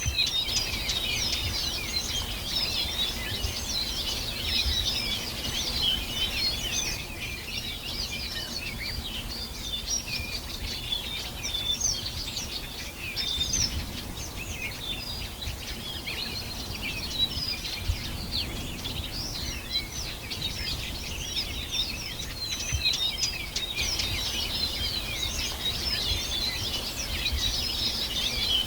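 Many small birds chirping and singing at once, a dense chorus of overlapping high chirps and trills that never lets up, over a low rumble.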